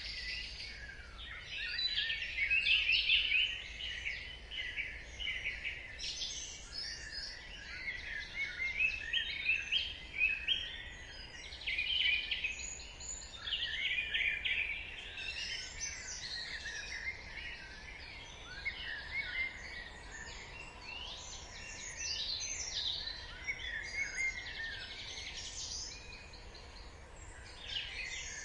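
Dawn chorus: many songbirds singing and chirping at once, their short trills and calls overlapping without a break over a faint low hum.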